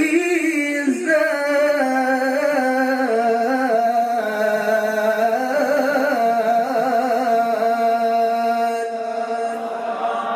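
A man's solo voice reciting the Quran in melodic tilawah style, drawing out the close of the phrase "alla tatghaw fil-mizan" as one long sung line. The line is full of quavering ornaments, steps down in pitch over the first few seconds, then holds level.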